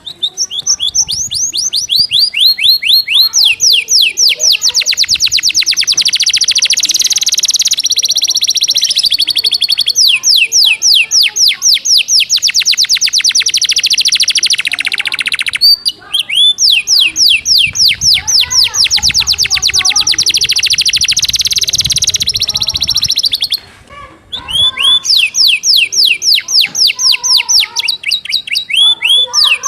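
Domestic canary singing a fast, dense song of rapid high trills and quickly repeated notes, its song filled with phrases learned from the great tit. The song stops briefly twice.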